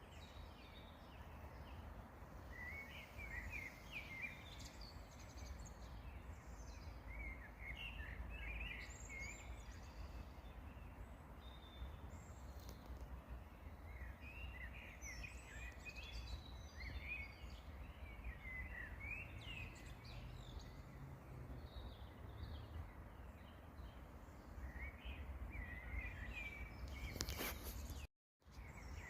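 Small songbirds singing in short twittering phrases every few seconds over a steady low rumble. Near the end there is a sharp click and the sound drops out for a moment.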